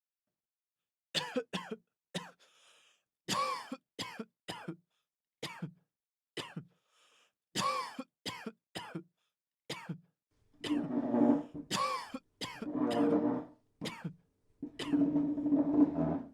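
A person coughing: a string of short, separate coughs, then three longer coughing bouts in the last six seconds.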